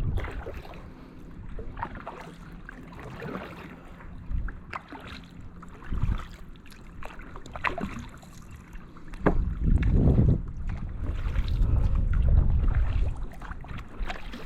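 Kayak paddle strokes splashing and dripping in calm water. Gusts of wind buffet the microphone, heaviest in the last third.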